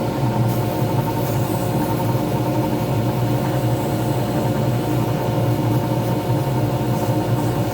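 Pen-turning lathe running steadily, its motor giving a constant hum.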